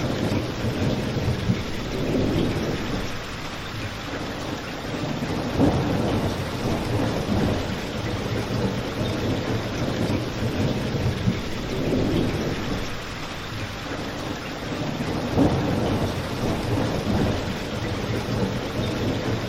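Steady rain falling, with a low rumbling swell rising and fading every few seconds and a couple of short louder pops.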